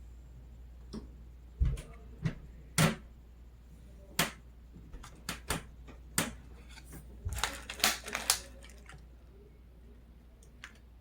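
Irregular sharp clicks, taps and crinkles of a granola bar's packaging being handled, with a couple of dull thumps and a denser run of crackling about seven to eight seconds in.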